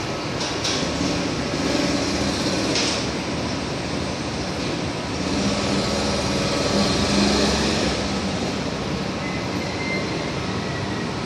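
Machinery running steadily, a continuous noisy hum with faint held tones. A few light clicks or knocks come in the first three seconds.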